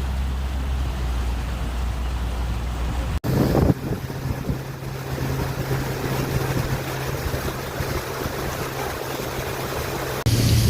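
Motorboat engine running steadily under way, a low hum over rushing wind and water noise. The hum jumps abruptly to a higher pitch about three seconds in and shifts again near the end.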